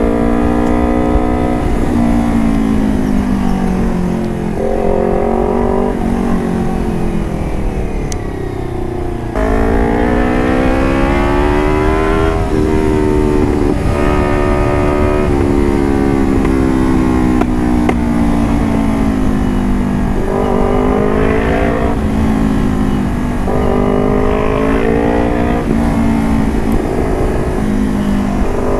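Vehicle engine running through an aftermarket carbon exhaust, being revved and ridden, its pitch climbing and falling again and again. After a dip it jumps sharply back up about nine seconds in.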